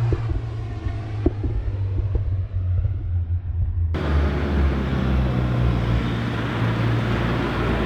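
Volkswagen Mk8 GTI's turbocharged 2.0-litre four-cylinder running through an X-Force cat-back exhaust, a steady low exhaust drone. About four seconds in it cuts abruptly to a louder, rougher take with wind on the microphone.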